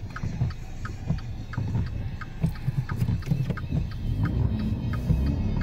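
Car engine and tyre rumble heard from inside the cabin, driving on a snow-covered road, with a steady ticking about three times a second. A low drone rises in pitch about four seconds in.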